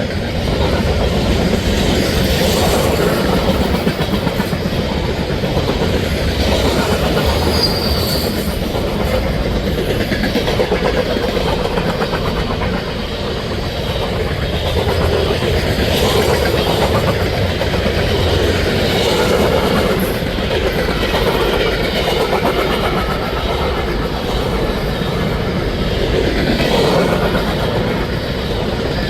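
Norfolk Southern mixed freight train rolling steadily past, the steel wheels of its cars rumbling and clacking over the rails, with a short high wheel squeal about eight seconds in.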